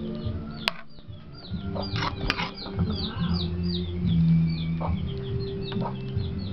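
A bird chirping over and over, short high notes about three a second, over background music with steady low notes. Two sharp clicks come about a second in and again about two seconds in.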